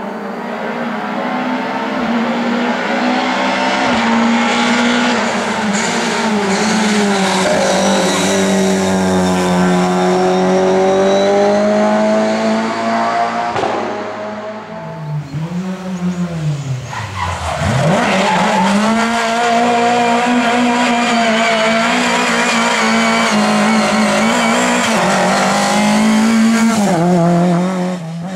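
Lada race car's four-cylinder engine running hard at high revs, its pitch wavering slightly. A little past halfway the revs drop sharply and climb back up, then hold high again.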